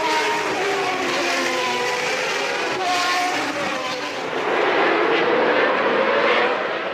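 1993 Formula One cars' engines at high revs passing along the Monaco street circuit, the pitch climbing and dropping with gear changes. From about four and a half seconds one car is louder and closer, rising to a peak and easing off just before the end.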